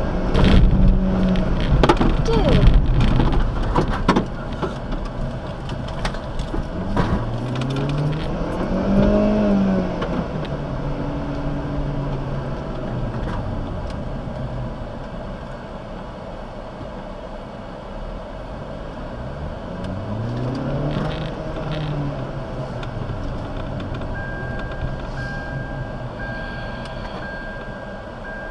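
A car's engine and road noise heard from inside the cabin. The engine rises in pitch and eases off twice as the car accelerates. There are heavy rumbles and knocks in the first few seconds, and a short, repeated high beep near the end.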